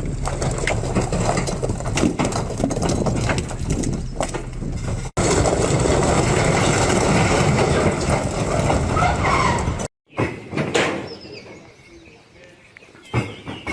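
Heavy truck engine running hard with a steady low hum, cut off abruptly twice, then a quieter stretch with people's voices.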